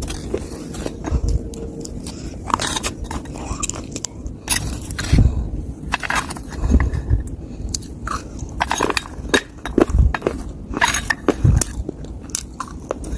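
Crunching bites and chewing of dry, crumbly clay soil, in irregular sharp cracks with dull low thuds between them.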